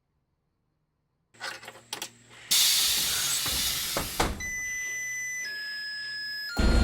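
Blue Bird D3FE bus being started up: a few clicks, then a loud air hiss lasting about two seconds. Steady high electronic tones follow, stepping down in pitch, and near the end the engine starts running loudly.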